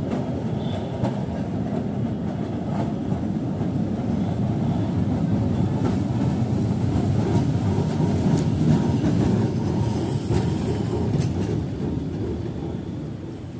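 A Kolkata tram running on its rails: a steady low rumble with occasional sharp clicks of the wheels, fading out at the very end.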